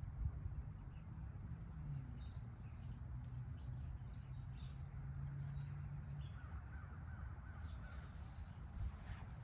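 Wood fire burning in a fire pit, with a low rumble and a few sparse crackles. A low steady hum runs through the middle, and a bird calls a little after halfway.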